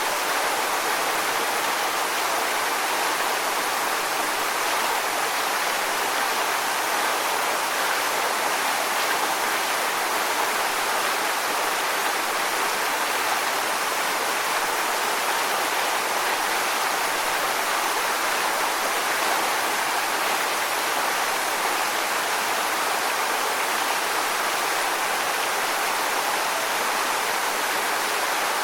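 Waterfall: water falling onto rocks in a steady, even rush with no distinct splashes.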